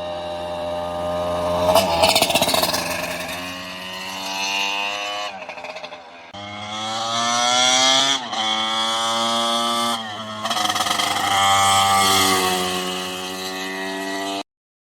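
Racing motorcycle engine accelerating hard: the pitch climbs, drops sharply at each upshift and climbs again, several times over. The sound cuts off abruptly near the end.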